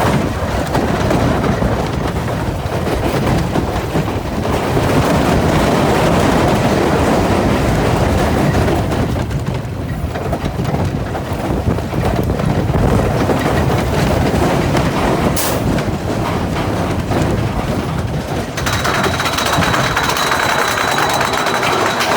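Mine-train roller coaster running along its steel track: a steady rumble with rattling clatter from the cars and wheels. About three and a half seconds before the end the sound changes, a higher hum and a thin steady tone coming in.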